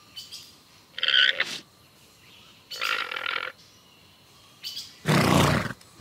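Llama making three short, rough calls about two seconds apart, the middle one softer.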